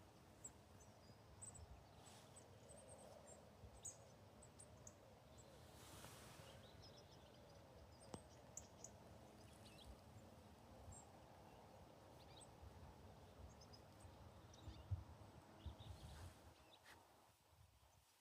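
Faint, scattered high chirps of small birds over a low outdoor rumble.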